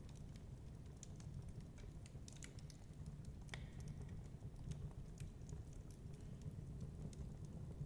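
Wood fire crackling in a fireplace: irregular small snaps and pops over a steady low rumble, with one sharper crack about three and a half seconds in.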